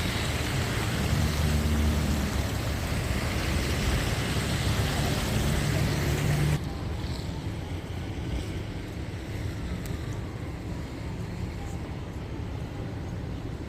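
Downtown street traffic: vehicle engines running with steady low hum over broad street noise. About six and a half seconds in, it cuts off abruptly to a quieter, even street ambience.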